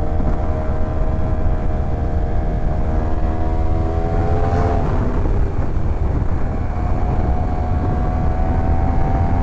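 Yamaha R1 inline-four sport bike engine pulling under way, its pitch climbing steadily. Shortly before halfway it shifts up with a brief break in the note, then the engine pulls again from a lower pitch. A heavy low rumble of wind runs under it.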